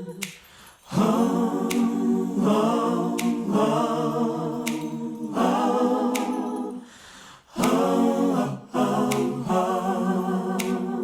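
Background music: a cappella vocal harmonies, with a sharp percussive click about every second and a half and short breaks in the singing near the start and about seven seconds in.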